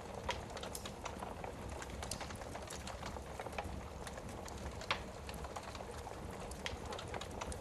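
Wood fire burning in a fireplace: a steady low rush with irregular crackles and pops, the sharpest about five seconds in.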